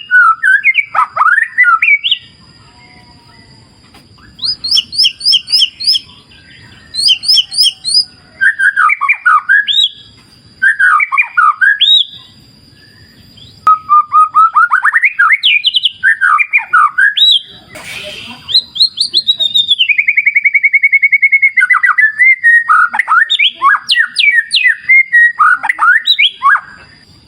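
White-rumped shama (murai batu) singing loud phrases of whistles and slurred, gliding notes, with short pauses between them and a rapid trill about two-thirds of the way through. Beneath it runs a faint low rush of flowing river water.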